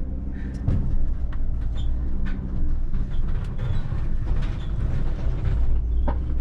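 Work vehicle being driven slowly, its engine running with a steady low rumble and frequent rattles and knocks.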